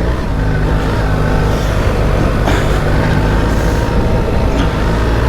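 BMW R 1300 GS Adventure's boxer-twin engine running at a fairly steady pitch while riding through sand, with wind noise.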